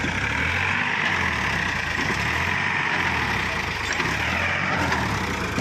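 Tractor engine running with a steady low rumble.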